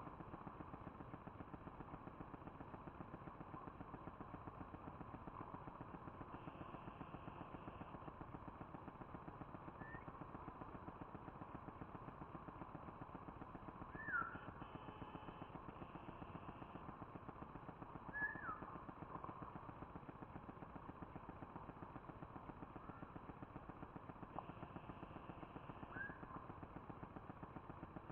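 A few short, falling bird chirps, the loudest about 14 and 18 seconds in, over a steady hiss with a fast, even pulse.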